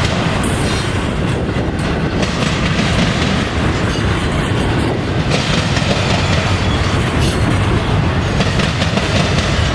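Intermodal freight train rolling past at steady speed, its wheels rumbling on the rails with a light clicking over the rail joints.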